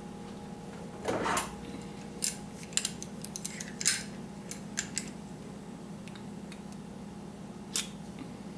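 Small metal parts of an air-rifle regulator being handled and taken apart by hand: a brief scrape about a second in, then a run of light metallic clicks and clinks, and one more click near the end.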